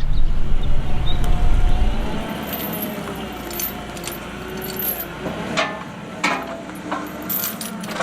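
A low motor hum stops about two seconds in. It is followed by scattered light metallic clinks and rattles from the steel fittings of a hoof trimming chute.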